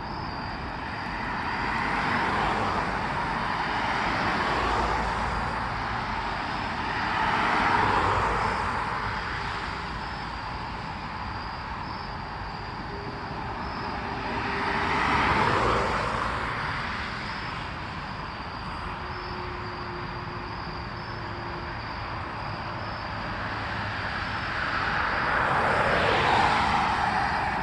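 Road vehicles passing one at a time, each sound swelling and fading away, four passes in all, over a steady high insect buzz.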